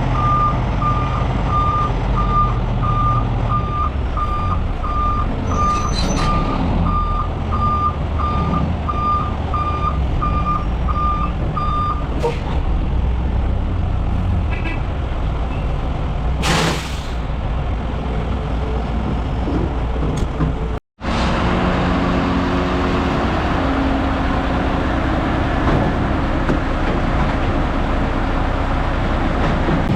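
Heavy diesel truck running while its reverse alarm beeps steadily, about two beeps a second, then stops about twelve seconds in. A few seconds later comes a short, sharp air hiss like an air brake being set, and the engine runs on through a brief cut in the sound.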